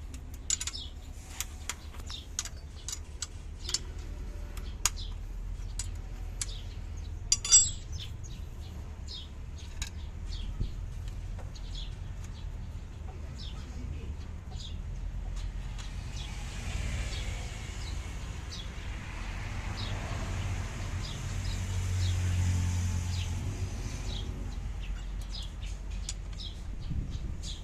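Light metallic clicks and clinks of hand tools working the valve rockers of an Isuzu 6HH1 diesel engine during a valve-clearance adjustment, with one sharper ringing clink about seven seconds in. A low steady hum runs underneath, and a broad rush of noise swells and fades in the second half.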